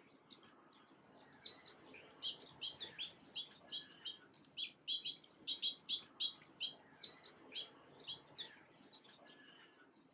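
Small songbirds chirping and twittering, a rapid run of short, high chirps that is thickest through the middle, over faint background noise.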